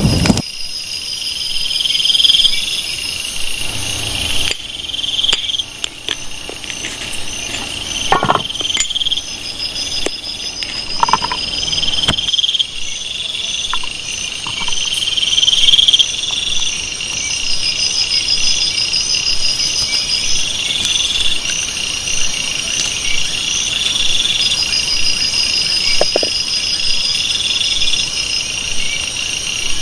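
Rainforest insect chorus. A chirring call swells and fades every couple of seconds over a fast, even pulsing trill and a steady high whine, with a few faint knocks in between.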